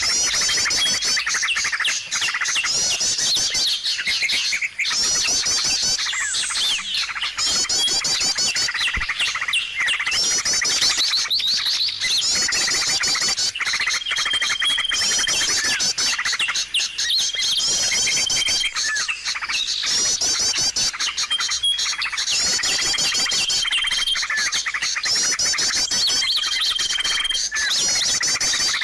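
A bird-lure recording of many small songbirds calling at once: dense, overlapping chirps, twitters and trills with no pause. In the second half a short level whistle repeats about every four seconds over the chatter.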